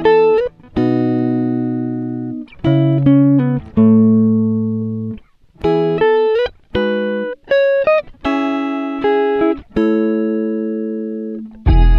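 Plucked guitar music: a run of notes and chords, each struck and left to ring and fade, some with deep bass notes under them.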